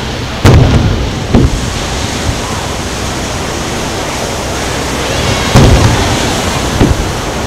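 Two aerial firework shells bursting, each a loud boom followed about a second later by a smaller, sharper bang, about five seconds apart, over a steady wash of surf and wind noise.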